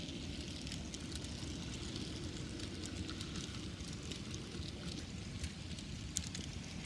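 N scale model freight cars rolling past on the track: a steady low rumble with a constant crackle of small wheel clicks on the rails.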